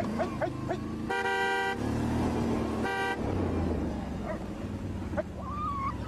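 Vehicle horn sounding twice: a toot of under a second about a second in, then a shorter one around three seconds, over a low steady engine-like rumble.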